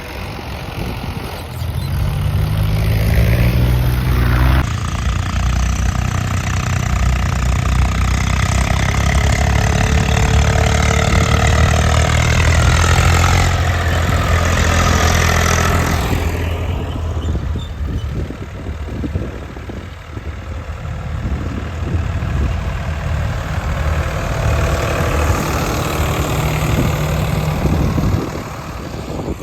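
Diesel engine of heavy machinery running loudly, revving up a couple of seconds in. The sound changes abruptly twice, once about 5 seconds in and again about halfway through.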